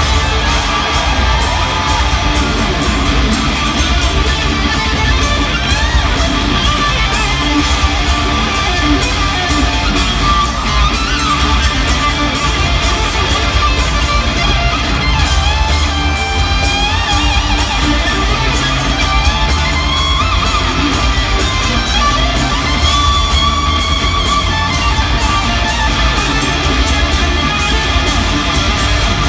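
Hard rock music: a lead electric guitar playing bending, gliding notes over drums and bass, with no singing.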